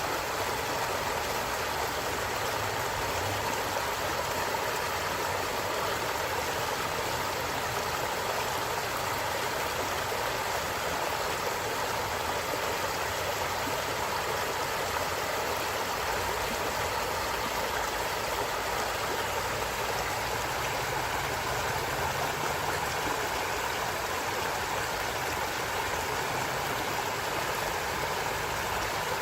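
A stream of running water babbling steadily and without a break.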